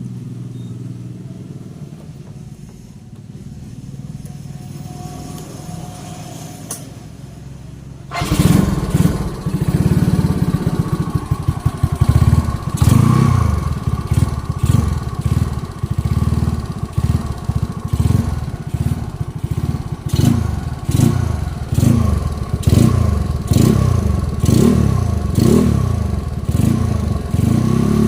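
Yamaha Mio scooter's single-cylinder four-stroke engine, bored to 130 cc, running through a Hitech Racing aftermarket exhaust. It idles steadily for about eight seconds, then is revved up sharply and blipped again and again, a little over one throttle blip a second.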